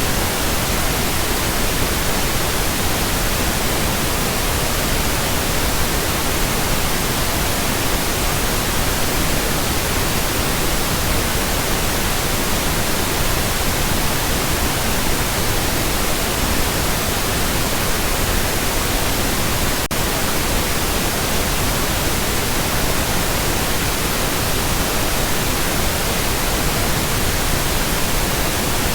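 Steady pink noise: an even, unchanging hiss spread across all pitches, with no rhythm or tone in it.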